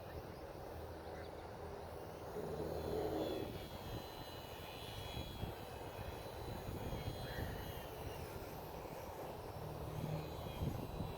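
Electric motor and propeller of a Sport Cub S 2 RC airplane whining in flight, a faint high tone that wavers up and down, over wind rumbling on the microphone.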